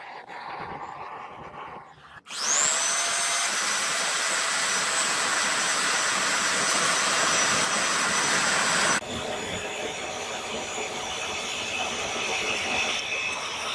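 An electric power tool's motor spins up with a quick rising whine about two seconds in and runs steadily for about six seconds. It then cuts off sharply, and a quieter, steady machine noise with higher tones follows.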